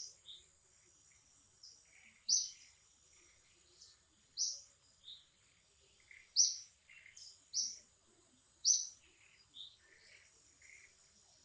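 Wild birds chirping: short, sharp high chirps repeating every second or two, with softer lower calls between them. Over them runs a faint steady high-pitched insect buzz.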